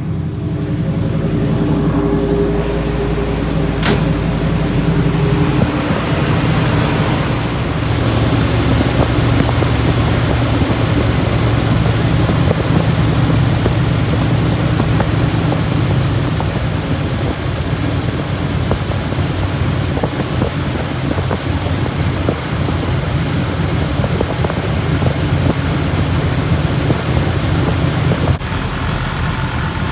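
1984 Pontiac Grand Prix engine running at a steady idle, with one sharp click about four seconds in.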